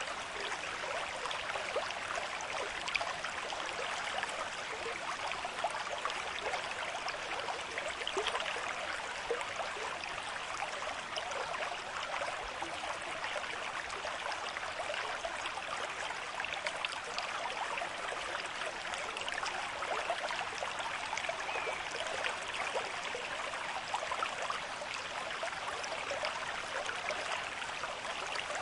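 A shallow stream flowing steadily over rocks at a moderate rate, a continuous rushing and babbling with small splashes.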